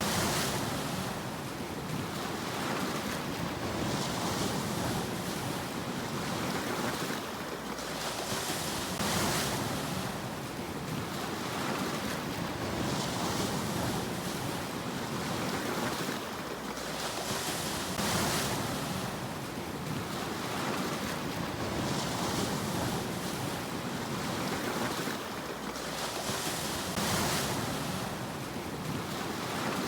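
Sea waves washing in and out. Each wash swells into a hiss about every four to five seconds over a steady background rush of surf.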